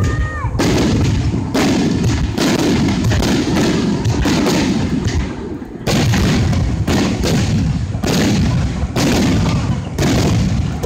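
Aerial fireworks shells bursting one after another: about a dozen sudden loud booms in quick succession, each trailing into a rumbling echo.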